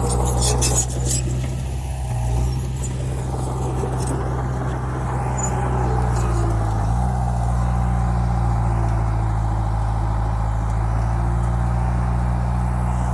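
Heavy diesel engine of earthmoving equipment running steadily, its pitch stepping up about seven seconds in. A few sharp clattering knocks come in the first second.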